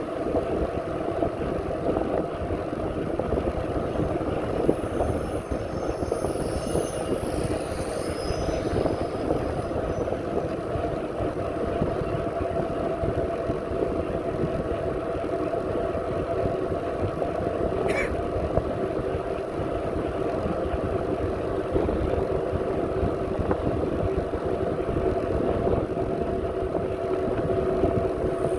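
Wind buffeting the microphone and the running noise of a bicycle in motion, over a steady hum. A single sharp click comes about 18 seconds in.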